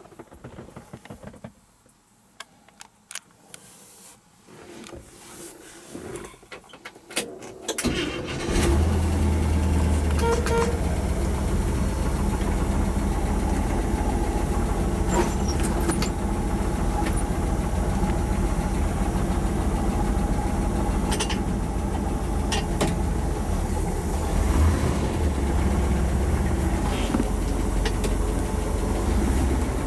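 1972 International Harvester truck engine being started: a few seconds of quiet, irregular clicks, then it catches about eight seconds in and settles into a steady idle.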